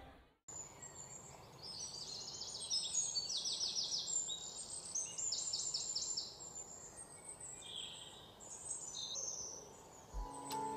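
Small birds singing: several bursts of rapid, high-pitched trills and chirps over a faint background hiss. Near the end, a music jingle with ticking begins.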